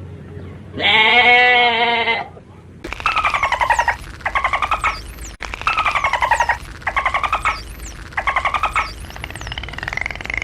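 A single bleat, then a different animal giving a series of about six rasping, rapidly pulsed calls, each under a second long and falling in pitch. Faint high chirps sound above them.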